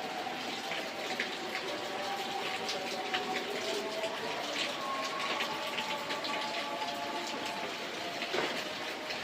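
Steady rain hiss with scattered drop ticks, with a few faint held tones underneath.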